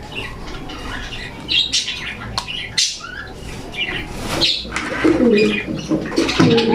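Pigeons calling: low cooing with many short, high chirps and squawks scattered throughout.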